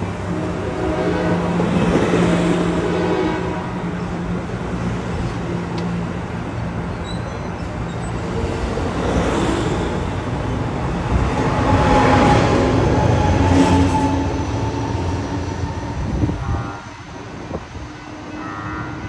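Bilevel passenger train cars rolling past at close range: a continuous rumble that swells each time a set of wheels goes by, with a held pitched tone over the first few seconds. Near the end the sound drops suddenly to a quieter rumble.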